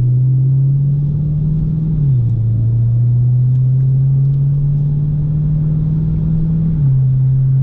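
Car engine droning steadily at road cruising speed, heard from inside the moving car. The drone's pitch drops slightly about two seconds in, climbs back, and drops again near the end as the throttle eases.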